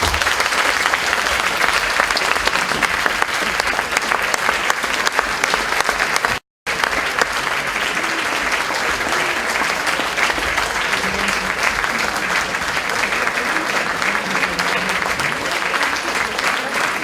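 Concert audience applauding steadily, a dense even clatter of many hands clapping. It swells in right at the start and briefly cuts out to silence for a moment about six and a half seconds in.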